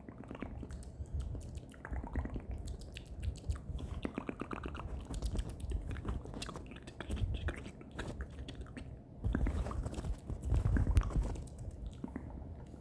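Close-miked ASMR mouth sounds: a run of wet clicks and smacks, thickest a few seconds in, with a louder, deeper stretch about three-quarters of the way through.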